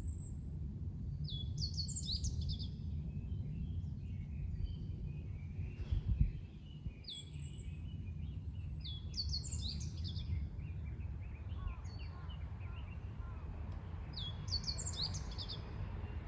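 Wild birds singing: one bird repeats a quick phrase of high, falling notes three times, about six seconds apart, with softer chirps between, over a steady low rumble. A brief low thump comes about six seconds in.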